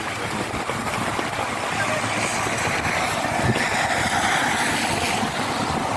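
A vehicle engine running amid steady rain and wind noise, with a rushing hiss that swells for a few seconds in the middle.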